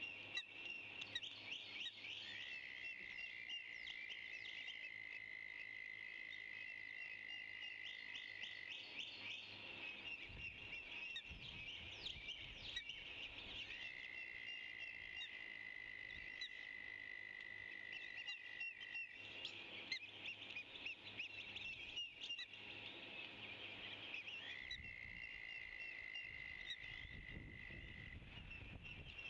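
Many small birds chirping and chattering together, with three long, steady high tones of about four to six seconds each, roughly ten seconds apart.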